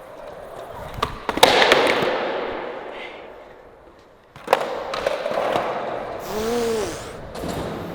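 Skateboard on flat ground: a sharp clack of the board hitting the ground about a second and a half in, wheels rolling and fading, then another hard clack about four and a half seconds in, followed by more rolling.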